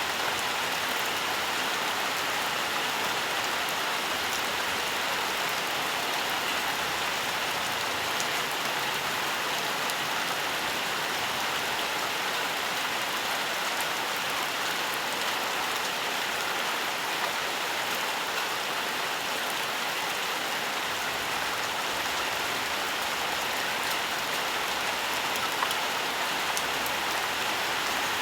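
Steady rain falling in a forest, an even hiss of rainfall with the patter of scattered drops.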